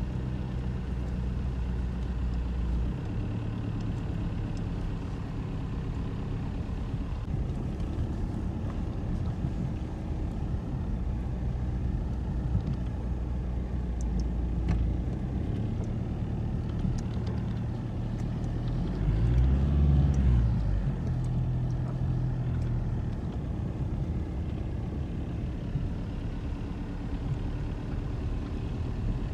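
A motor vehicle's engine running, its pitch stepping up and down, with a louder swell about twenty seconds in.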